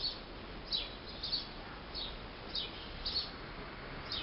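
A small songbird chirping over and over: short, high, falling chirps, one about every half second to second, over faint steady background noise.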